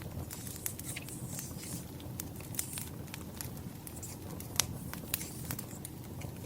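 Firewood burning with irregular sharp crackles and pops over a low steady rumble, with some light paper rustling mixed in.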